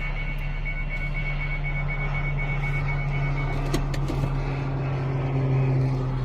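A steady low engine drone that grows louder near the end, with a rapid repeating high-pitched beep that stops about three and a half seconds in.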